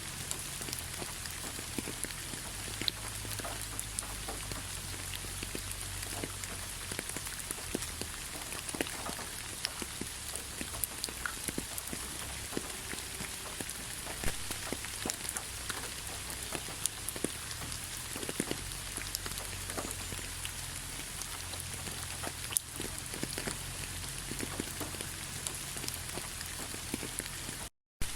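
Steady rain: an even hiss of rainfall with many separate raindrops ticking on a surface. It breaks off into silence for a moment near the end.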